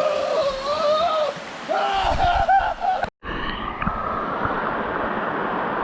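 People calling out over rushing water for about three seconds, then, after a sudden break, a steady rush of flowing water.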